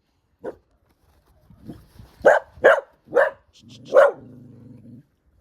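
Fearful, reactive rescue dog barking at a stranger. A couple of softer barks are followed by four loud barks in quick succession, the last running into a low, steady growl.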